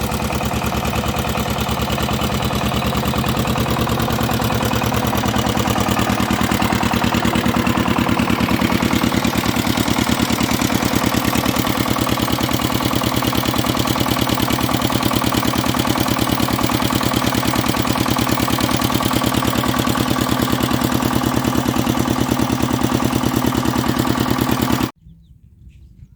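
A walking tractor's 16 horsepower diesel engine running with a steady, even firing beat; it speeds up and grows louder a few seconds in, then holds steady until it cuts off abruptly near the end.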